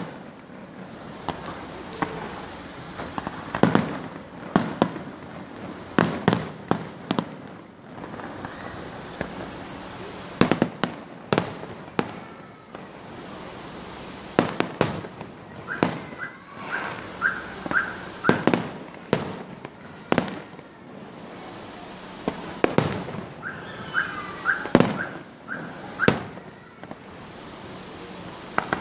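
Fireworks going off in an irregular run of sharp bangs, sometimes several a second, with crackling between them. A short warbling tone sounds twice among the bangs.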